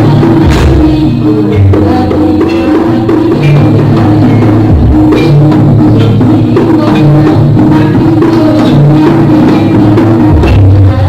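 Live jaranan music (gending jaranan) from a gamelan-style ensemble: drums keep a steady rhythm over a repeating figure of pitched struck notes, with a few deep low strokes.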